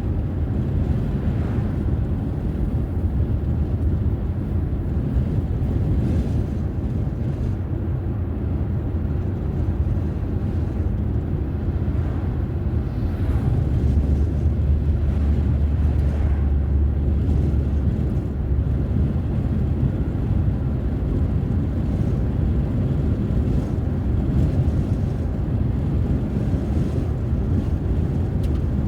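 A car being driven: steady low road and engine rumble, which grows louder in the lowest range for a few seconds about halfway through.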